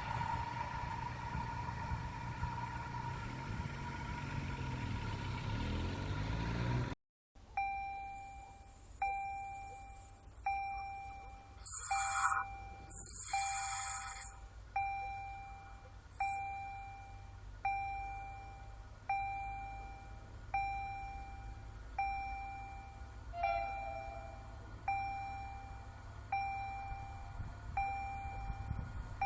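A railcar running with its engine note falling in pitch, then, after a cut, an electronic level-crossing warning bell dinging about once a second. Two short, loud high-pitched blasts sound a few seconds after the dinging starts.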